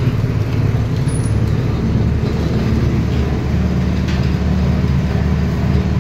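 Small petrol engine running steadily, driving a sugarcane juice crusher.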